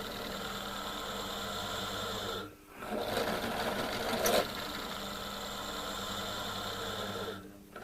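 Electric pillar drill (drill press) running with a steady motor hum. The sound dips out briefly about two and a half seconds in and again near the end.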